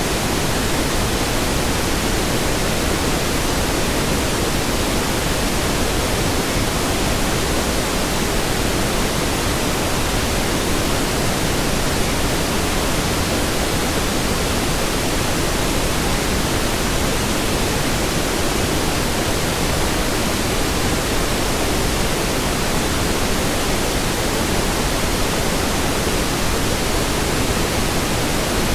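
Steady synthetic pink noise: an even hiss spread across all pitches, unchanging in level.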